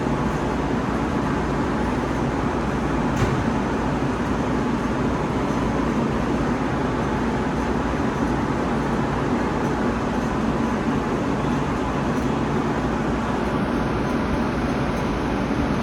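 Steady rumble and hiss of an underground metro station, with one short click about three seconds in.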